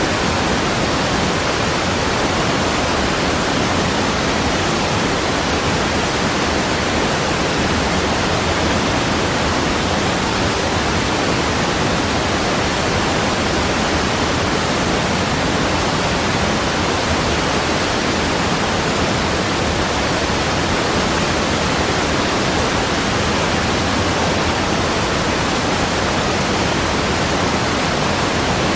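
Steady rushing water, an even unbroken roar of noise like a waterfall, with no change in level or character.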